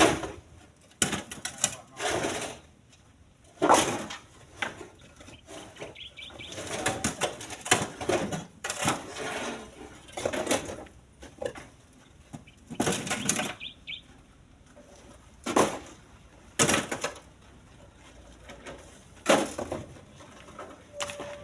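Split stones being thrown by hand into a truck's steel bed: irregular loud knocks every second or two, with stretches of rattling clatter between them.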